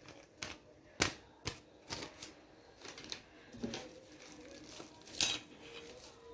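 Irregular clicks and knocks, about eight of them, from handling the hard plastic parts and packaging of a table fan during unboxing and assembly. The loudest come about a second in and just past five seconds in.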